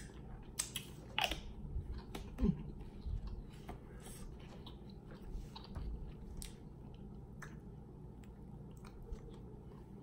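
A person chewing rotisserie chicken with wet lip smacks and finger licking. The clicks and smacks come thick in the first three seconds, then thin out.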